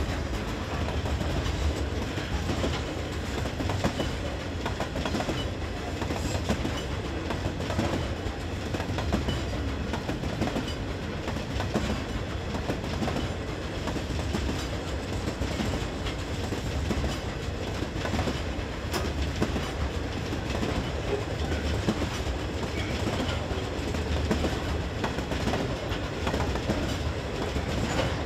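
Loaded coal hopper wagons rolling past, a steady rumble of steel wheels on the rails with the clack of wheels over the track.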